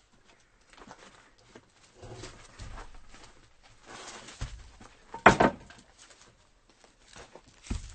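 Axe chopping firewood: one sharp, loud strike about five seconds in, with a lighter knock near the end and the shuffle and rustle of wood being handled between strikes.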